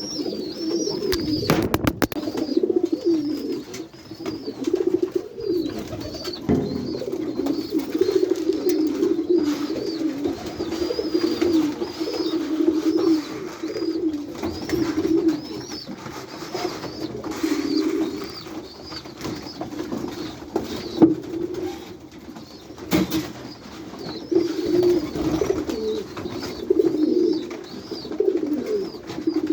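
A flock of domestic white pigeons cooing together in a small loft room, a continuous low burbling chorus, with a thin high chirping repeated over it. A sharp clatter comes about two seconds in and another about three-quarters of the way through.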